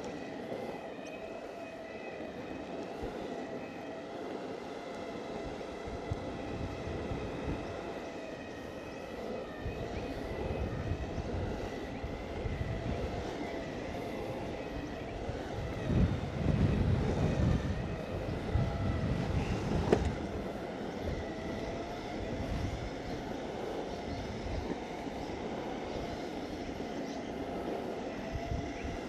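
Exway Flex Pro V3 electric skateboard riding: its motors whine at a steady pitch over the rumble of the wheels rolling on pavement. The rumble swells louder a little past the middle, with a sharp click at its end.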